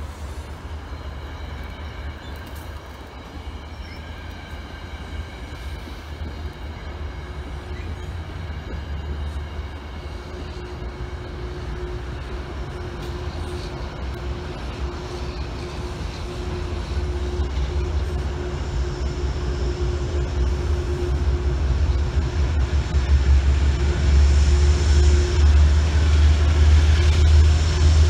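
Metro-North passenger train rolling past, its wheels rumbling on the rails under a faint steady whine. The low rumble grows steadily louder over the last third.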